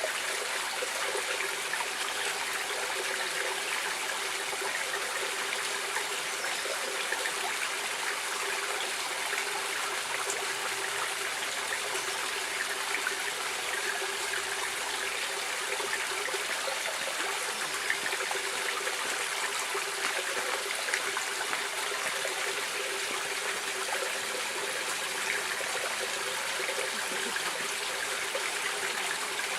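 Stream water running and trickling steadily, an even rushing wash with no pauses.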